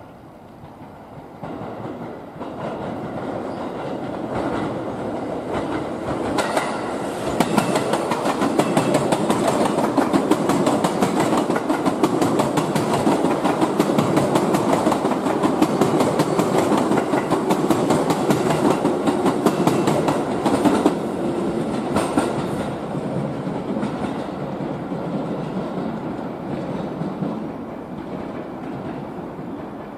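JR East E653 series express electric train passing close by, its wheels clattering rapidly over rail joints and points. It grows louder over the first seconds, is loudest through the middle while the cars go by, and fades as it draws away.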